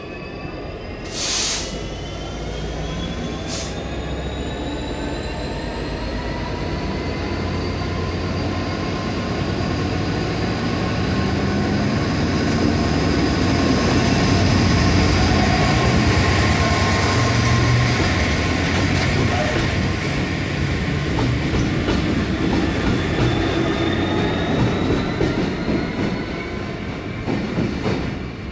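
A locomotive running light passes, growing to its loudest about halfway through and then fading, with high whining tones that glide slowly upward over the first several seconds. There is a short loud burst of noise about a second in and a fainter one about two seconds later.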